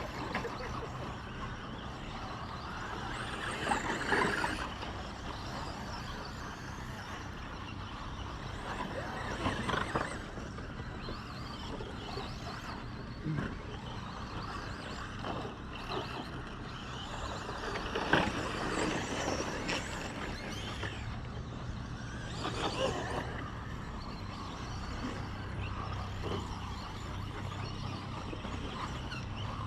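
RC short course racing trucks running on a track, their motors and tyres swelling loud and fading as they pass close by about four times, over a steady low hum.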